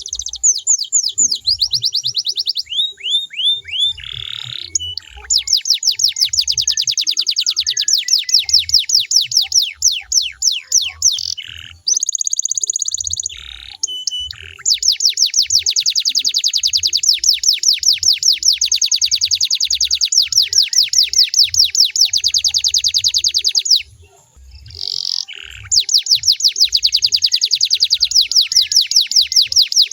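Canary singing: long, fast rolled trills of rapidly repeated high notes, broken by a few short pauses.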